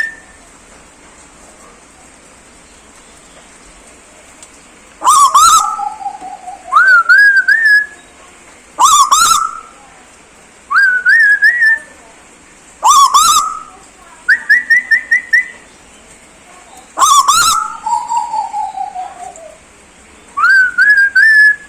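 A tuwu bird giving a string of whistled calls after about five seconds of quiet. Each is a short rising, wavering phrase, the phrases coming roughly every two seconds. One is a quick run of about five short notes, and twice a slower falling whistle follows a call.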